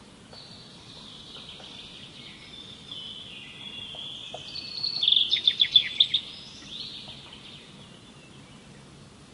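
Songbird singing: high-pitched song that builds to a loud rapid trill of about eight notes a little past halfway, over a faint steady background hiss.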